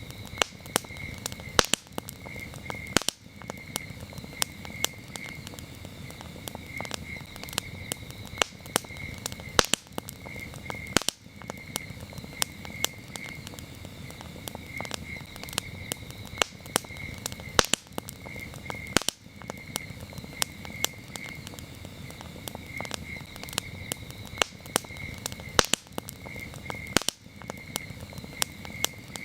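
Campfire crackling, with frequent sharp pops and snaps over a low steady rustle of burning wood, while crickets chirp steadily in a high, pulsing trill behind it.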